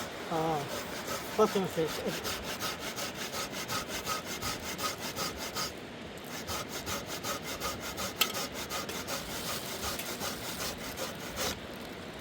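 Hand saw cutting wood in quick, even back-and-forth strokes, with a short pause about halfway through. A brief wavering voice is heard twice in the first two seconds.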